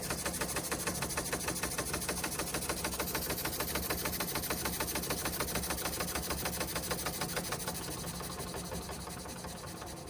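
Märklin 4149/9 live steam engine running fast under steam, a rapid, even beat over a steady hiss of steam. It gets quieter over the last couple of seconds.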